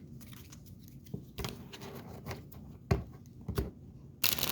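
Tarot cards being handled, making scattered soft taps and rustles. Near the end a loud burst of card shuffling starts.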